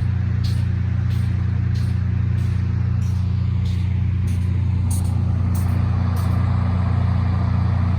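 Diesel locomotive running with a loud steady low drone, with a short high click repeating about every two-thirds of a second.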